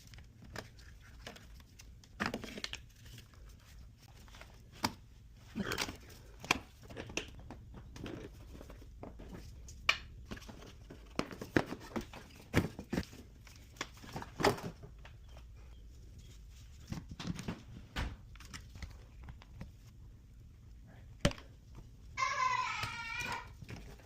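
Irregular handling noise: scattered clicks, knocks and rustles of objects being moved and set down, over a low steady hum. A high-pitched voice sounds briefly near the end.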